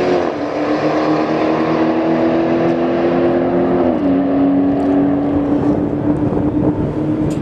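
A drag car's engine running loudly at a steady speed. Its pitch steps down slightly twice, just after the start and about four seconds in.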